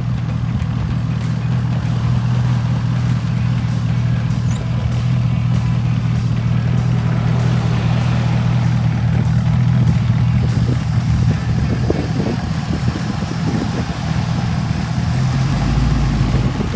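Car engine idling with a steady low rumble that shifts in pitch near the end.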